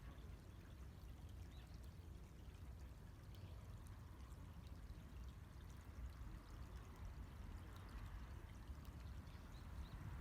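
Faint, steady trickling and splashing of a small shallow stream.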